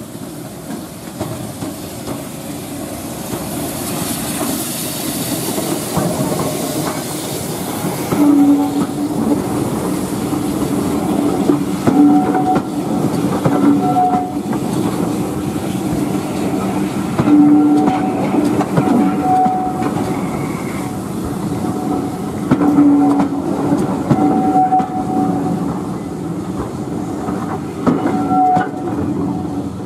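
Heritage tank-engine train passing close by: the rumble grows as the locomotive approaches, then the coaches roll past with a clickety-clack of wheels over rail joints and short squealing tones that come and go.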